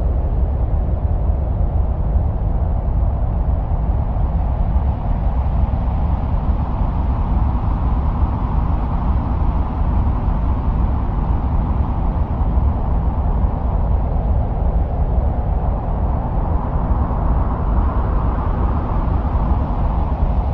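Steady wind-like rumble with a deep low end and a hissing band above it that slowly swells and ebbs twice, presented as the sound of the winds on Mars.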